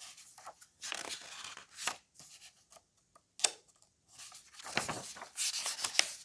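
Paper rustling and rubbing in short, irregular bursts as the pages of a picture book are handled and turned.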